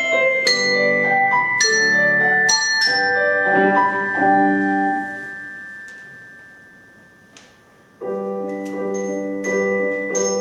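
Mallet percussion playing a melody of struck, ringing notes over piano accompaniment. The music dies away about halfway through, then resumes about 8 seconds in.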